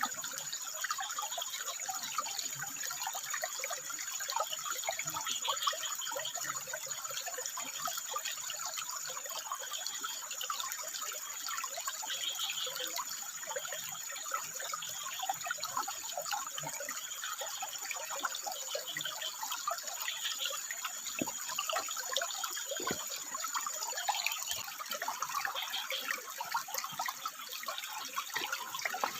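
Water trickling and splashing over rocks, with short calls, plausibly frogs, coming and going now and then. A thin, steady, high-pitched tone stops about 24 seconds in.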